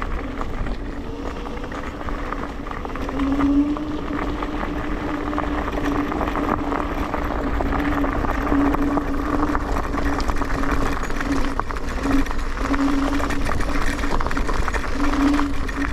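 Electric scooter riding along, its motor giving a steady whine that grows stronger a few seconds in, over constant rushing wind and tyre noise.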